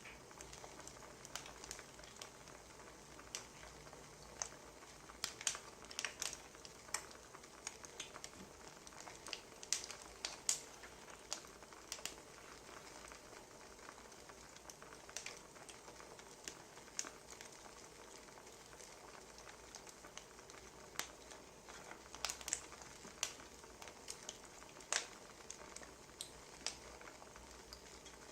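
Wood fire crackling: irregular sharp pops and snaps, several a second at times, over a faint steady hiss.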